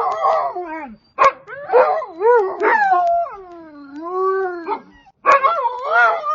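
A dog howling and yelping in a run of wavering, pitched calls, with one long sliding howl in the middle and sharp yips about a second in and again near the end.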